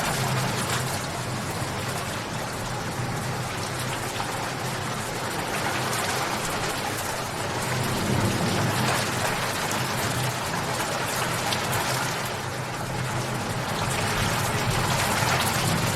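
Steady rainfall, drops pattering on a surface, swelling and easing gently in loudness.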